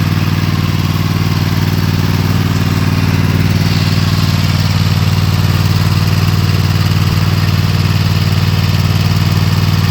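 Toro TimeCutter MX5050 zero-turn mower's engine running steadily at a constant speed.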